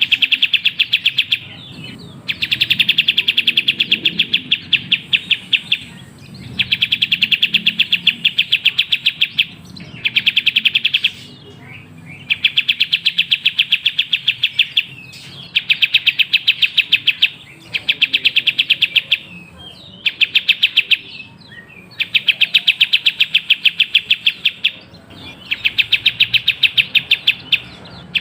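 Kapas tembak bird calling in bouts of rapid, evenly repeated chirps, each bout a second or two long and repeating with short pauses, played as a lure track to set other birds singing.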